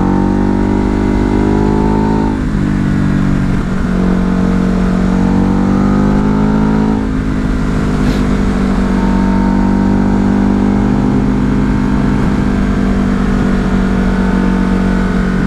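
Ducati Hypermotard's L-twin engine under way, pitch climbing through a gear, dropping at an upshift about two seconds in, climbing again and dropping at another shift about seven seconds in, then holding steady at cruise. A low rush of wind noise runs under it.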